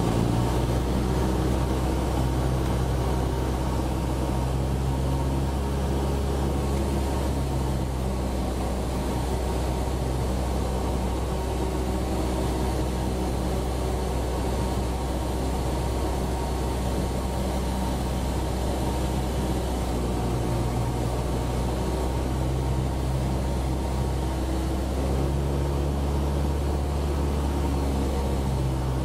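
Cessna 172's piston engine and propeller droning steadily in the cabin. The engine tone weakens for a while and comes back stronger about twenty seconds in.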